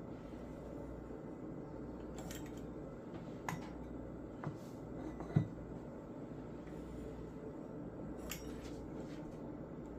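A utensil cutting beignet dough on a kitchen counter: a few light clicks and taps, with one duller, louder knock about five seconds in, over a steady low hum.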